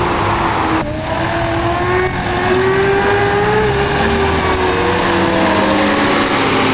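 Honda CBR600RR's inline-four engine running at high revs. Its pitch drops sharply about a second in, climbs again for a few seconds, then falls steadily toward the end.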